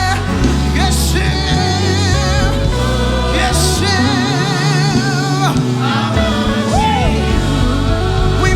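Live gospel worship band with singers: vibrato voices over steady bass and drums, with a few cymbal splashes.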